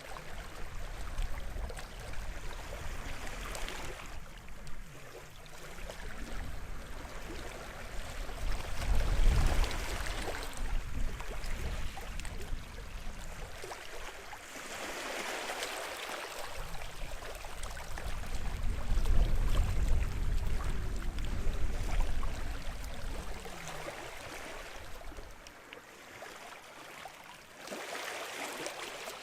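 Small waves washing up on a shingle-and-sand bay shore, coming in surges a few seconds apart. The bigger swells carry a deep rumble.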